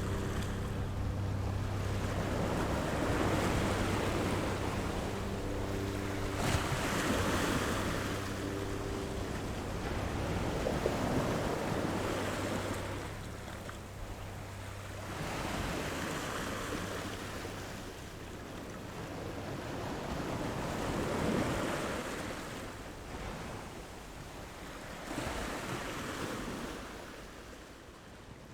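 Sea waves washing in and drawing back in slow swells every four to five seconds. A low steady hum runs under them and stops about nine seconds in.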